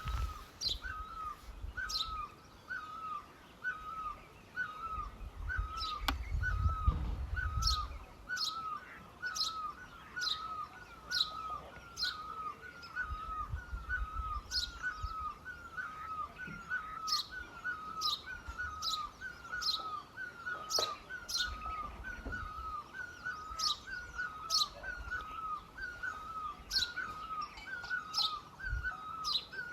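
Birdsong: one bird repeats a short mid-pitched note steadily, about three every two seconds, while another gives high, sharp chirps at irregular intervals. A low rumble comes and goes, strongest a few seconds in.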